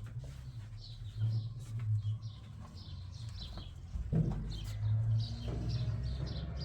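Small birds chirping in quick, short, high notes, repeated in little clusters, over a low steady hum.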